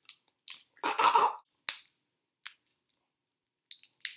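Plastic gelato jar being opened: sharp plastic clicks and crackles as the lid and its seal are worked loose, with a louder crackling tear about a second in and a few more clicks near the end.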